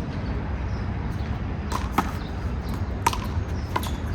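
A one-wall handball rally: a handful of sharp smacks of the small rubber ball being struck and bouncing off the wall and pavement, starting about a second and a half in, some in quick pairs. A steady low rumble runs underneath.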